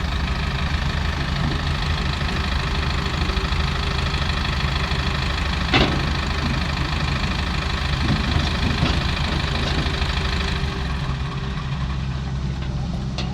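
Heavy diesel machinery engine running steadily with a knocking rumble, with a sharp metallic click about six seconds in and another right at the end.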